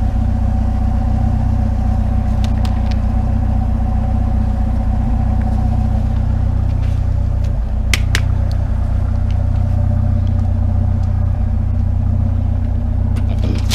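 Truck engine running with a steady low drone, with a couple of sharp clicks about eight seconds in.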